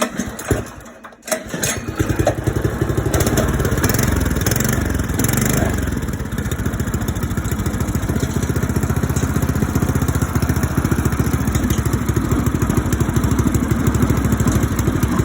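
Predator small engine on its stock exhaust being pull-started cold on choke: it catches about a second and a half in, its speed rises and falls for a few seconds, then it settles into steady running.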